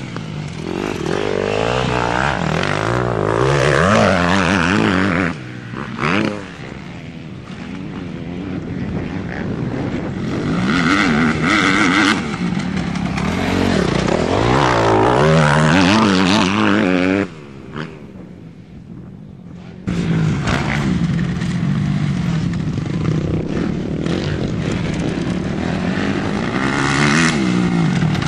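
Off-road motocross motorcycle engines revving hard as the bikes accelerate and pass by. The pitch climbs and falls repeatedly as the bikes shift up. The sound drops away suddenly a few times, then comes back.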